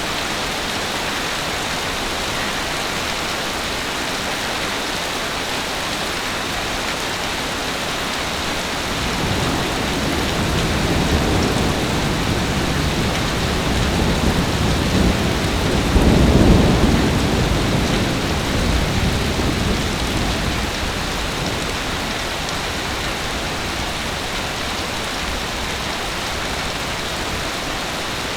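Heavy rain falling steadily, with a long low rumble of thunder that builds about a third of the way in, is loudest just past the middle, and dies away over several seconds.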